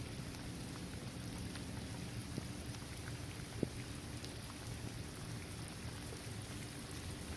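Steady rain falling on a basketball court, trees and grass, with scattered single drops ticking through the hiss; one sharper drop about three and a half seconds in.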